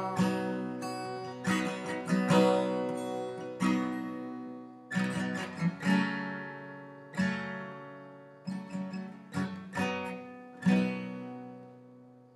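Acoustic guitar playing an outro: strummed and plucked chords, each left to ring, spaced farther apart and dying away to the final chord near the end.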